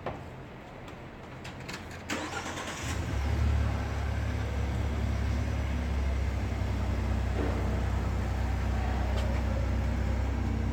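A Ford Expedition's engine starting after a few clicks, then idling steadily.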